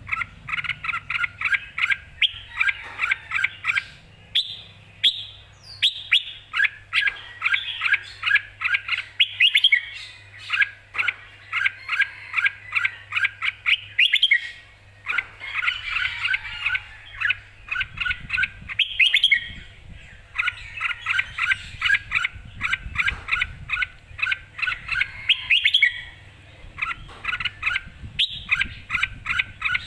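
Red-whiskered bulbul singing in quick chirping phrases, each a second or two long, separated by short pauses.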